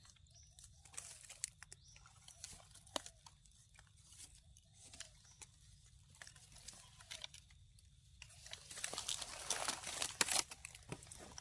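Dry leaf litter and twigs crunching and rustling as they are stepped on or pushed aside: scattered snaps at first, then a louder stretch of crunching near the end.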